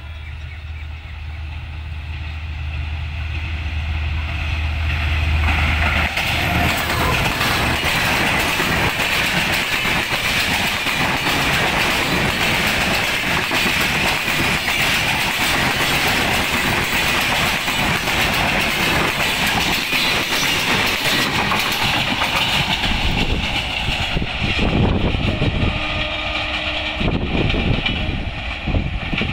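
Express passenger train hauled by an American-built diesel locomotive passing close by: the locomotive's engine drones low for the first few seconds, then a long run of coaches rumbles and clatters over the rail joints, easing off near the end as the train moves away.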